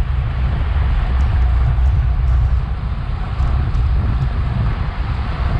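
Wind buffeting an action camera's microphone on a racing bicycle at speed, a steady low rumble with a rushing hiss over it.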